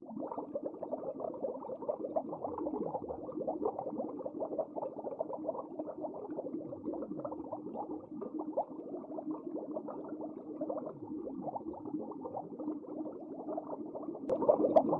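Dense underwater crackling and bubbling with many small clicks and a faint steady hum, swelling louder near the end with a few sharp clicks.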